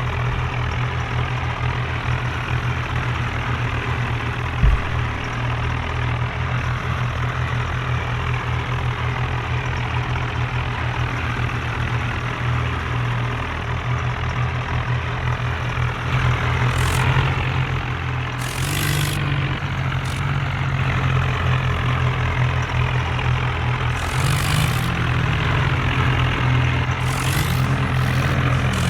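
Tractor diesel engine running steadily with a fast, even low throb. There is a single short thump a few seconds in, and several brief hissing bursts in the second half.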